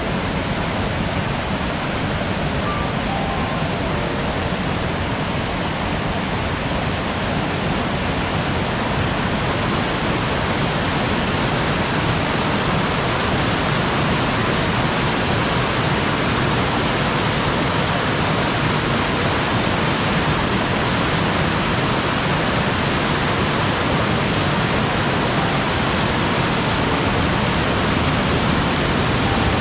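A waterfall on a mountain stream, its water falling and rushing in a steady roar that grows slightly louder in the second half.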